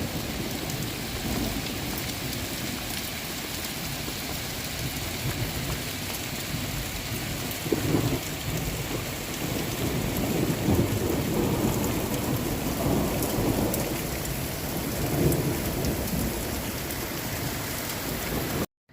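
Heavy rain falling steadily, with low rumbles swelling now and then through the middle; it cuts off abruptly just before the end.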